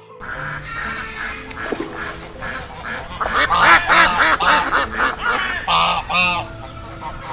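A flock of birds calling, many overlapping calls that grow busiest and loudest in the middle, over soft background music.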